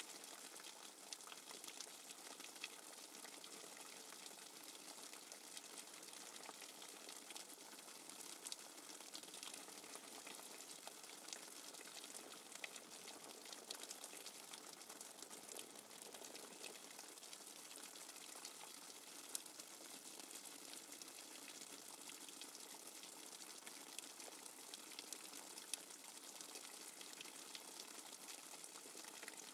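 Steady rain falling, an even faint hiss sprinkled with many small, separate drop ticks.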